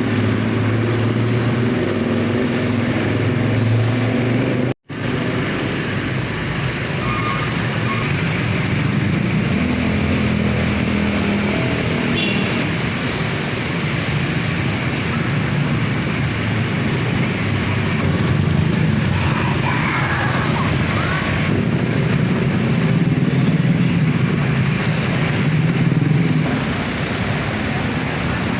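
Road traffic: engines of passing cars and motorcycles running under a steady roadside noise, with the engine hum rising and falling as vehicles go by. The sound cuts out for an instant about five seconds in.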